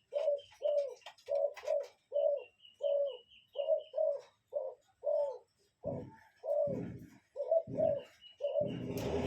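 A mother bird's short, low calls, repeated about twice a second, answered by a faint string of high peeps from her young about two seconds in and again near the end. A steady noise comes in just before the end.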